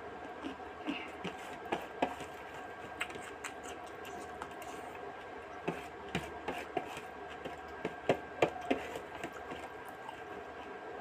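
Eating rupchanda fish curry with rice: irregular wet clicks and smacks of chewing and handling the food, over a steady background hum.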